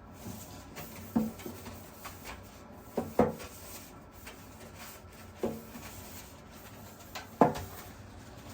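A handful of separate knocks and clunks of objects being handled and set down, with light rubbing between them. The loudest comes near the end.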